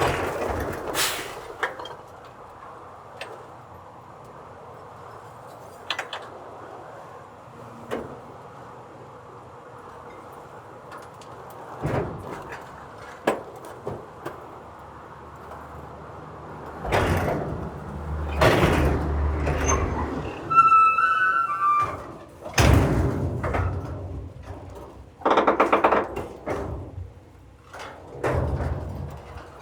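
Garbage truck at work: a steady engine drone with a string of loud bangs and clanks, heaviest in the second half.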